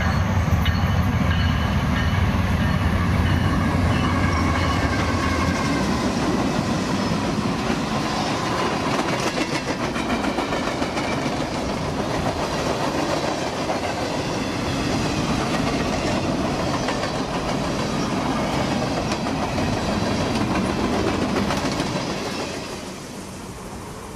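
Freight train passing close by: a deep diesel-locomotive rumble for the first five seconds or so, then the cars rolling past with a steady clickety-clack and rattle of wheels on the rails. The sound falls away about 22 seconds in as the train moves off.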